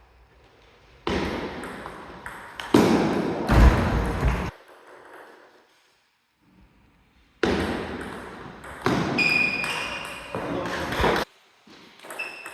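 Table tennis ball being hit in rallies, clicking off the bats and the table, in two runs of sharp hits with a pause between them. The hits ring on in an echoing hall, and there is a brief high squeak about nine seconds in.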